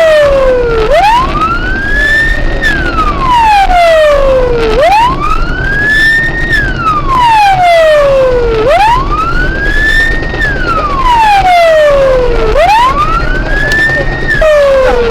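Police car siren wailing in a slow repeating cycle: each wail rises quickly, then falls slowly over about three seconds, about four seconds per cycle. Engine and road noise run steadily underneath.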